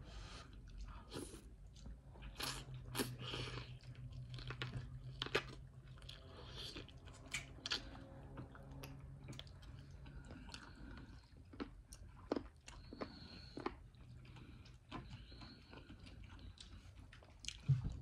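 Close-up chewing and mouth sounds of a person eating chicken curry with cabbage and potatoes, with irregular sharp clicks throughout over a faint steady low hum.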